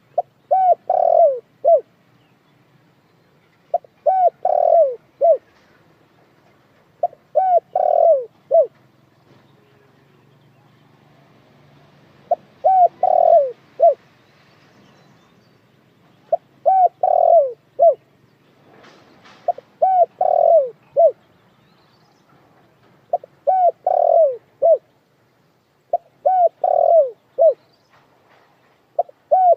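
Dekukur (spotted dove) cooing: a short phrase of three or four coos, each rising then falling, repeated about nine times at intervals of three to four seconds.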